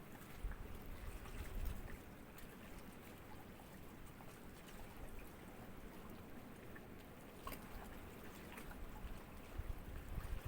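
Small sea waves lapping softly, a faint wash of water with little trickling splashes and a low rumbling swell now and then.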